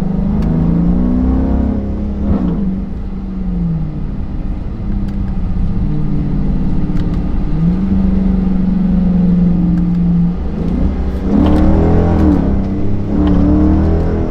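Straight-piped Hemi V8 of a Chrysler 300 S pulling the car along. The exhaust note rises under acceleration about a second in, eases back, holds steady at a cruise through the middle, then rises again twice in quick succession near the end.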